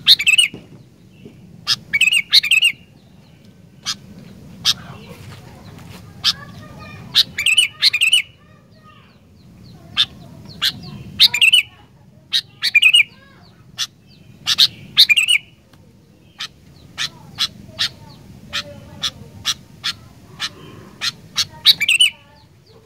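Sooty-headed bulbul (kutilang) calling: loud clusters of quick, sharp chirps come every second or two, over a faint low background rumble.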